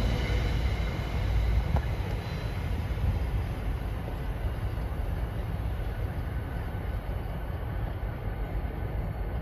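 Rumble of an NJ Transit Arrow III electric multiple-unit train's wheels on the rails as it pulls away. The sound is low and steady and eases a little in the first couple of seconds.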